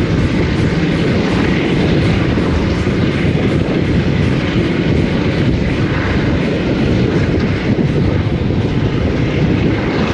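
Passenger train hauled by Class 52 diesel-hydraulic locomotive D1015 running at speed: a loud, steady rumble of wheels on the track.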